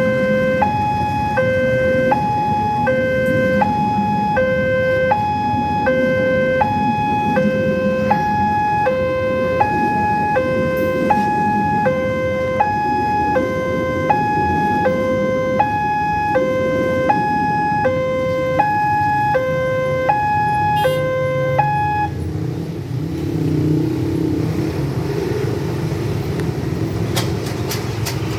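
Railway level-crossing warning alarm sounding, an electronic two-tone signal alternating a low and a higher tone in an even ding-dong about once a second; it stops about 22 seconds in. A steady low rumble runs underneath throughout.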